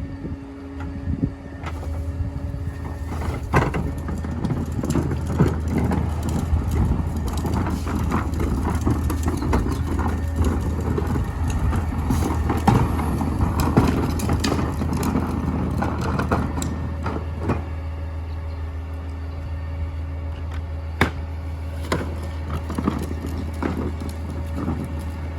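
Mini garbage truck's engine running steadily under load, with dense rattling, crunching and knocking as its packer compacts trash. The clatter dies down about two-thirds of the way through, leaving the engine running with a few knocks.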